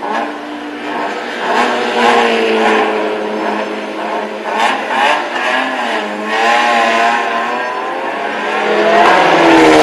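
Racing vehicle engines running on a circuit, their pitch rising and falling as they pass. A louder engine comes up near the end.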